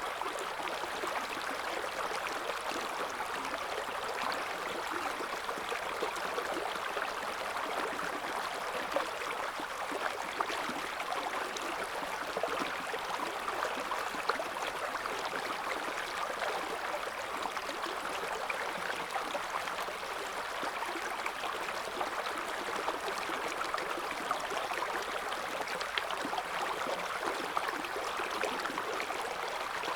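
River water flowing and babbling over stones in a steady, even rush, with fine splashing and gurgling detail throughout.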